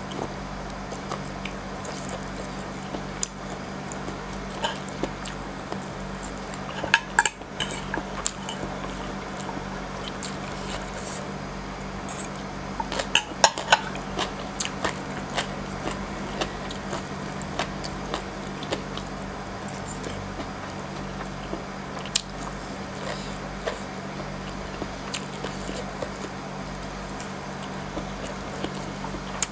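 Close-miked eating sounds of papaya salad and crab sticks: chewing with sharp crunchy clicks and mouth sounds, heaviest in clusters about 7 and 13 seconds in. A steady low hum runs underneath.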